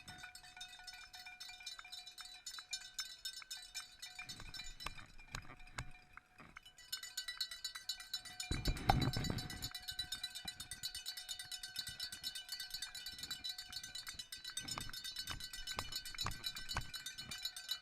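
Cowbells ringing, shaken rapidly and steadily with a metallic clatter, with a brief low rumble about halfway through.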